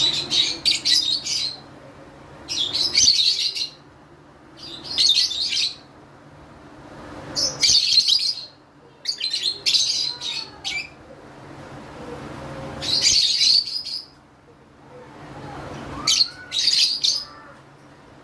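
Lovebirds chirping in repeated bursts of rapid, high chirps, a burst roughly every two seconds.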